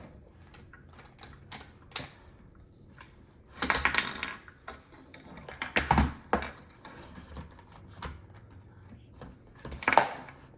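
Plastic toys being handled and knocked together: scattered light clicks and clatters, with louder rattling bursts about three and a half seconds in, around six seconds, and near the end.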